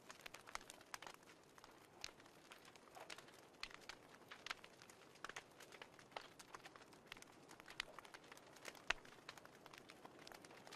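Wood fire crackling faintly: irregular sharp pops and snaps, several a second, over a soft steady hiss.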